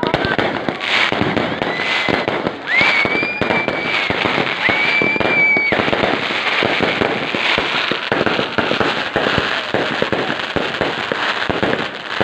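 Fireworks going off in a dense, continuous barrage of crackling and popping. Between about two and six seconds in, three high whistles rise and then hold over the bangs.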